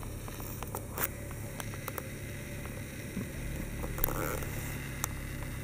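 Steady low hum of a Volkswagen Passat 2.0 TDI idling, heard from inside the cabin, with scattered light clicks and a few short knocks about a second in, around four seconds in and at the end.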